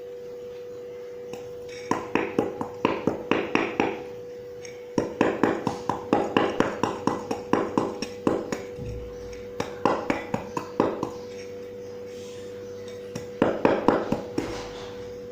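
Dry clumps of mud and sand crunching and crumbling as they are crushed. The crunching comes in four bursts of quick crackles, about two seconds in, five seconds in, ten seconds in and near the end, over a steady hum.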